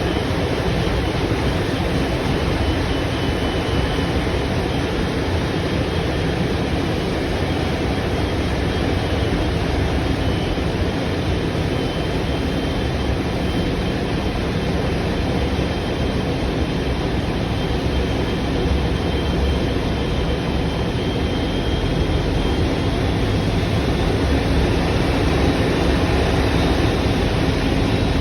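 Steady, loud engine rumble with a rushing, wind-like noise, unchanging throughout, with a faint machine hum on top.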